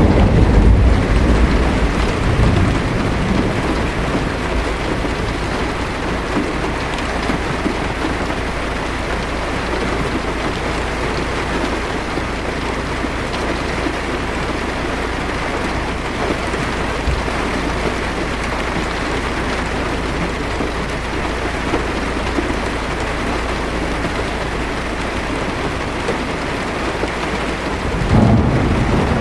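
Heavy rain pattering steadily on a car's windshield and roof, heard from inside the car. A low roll of thunder fades away over the first couple of seconds, and another rumble of thunder builds near the end.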